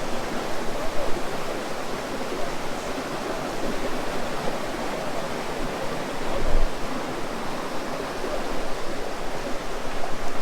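A fast-flowing mountain stream rushing over rocks, a steady loud water noise.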